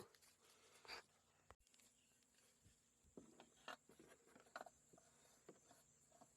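Near silence, with a few faint, scattered light clicks.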